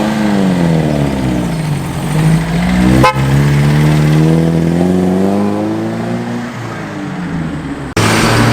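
Car engines running as cars drive past, the engine note rising and then falling away twice. A sharp click comes about three seconds in, and near the end the sound changes abruptly to louder road noise.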